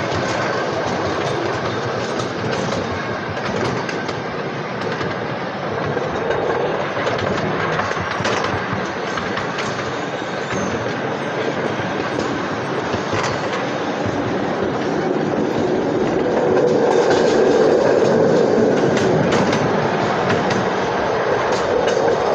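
Train running on the rails, heard from aboard: a steady rumble of wheels and cars with scattered clicks over the rail joints, growing somewhat louder about three-quarters of the way through.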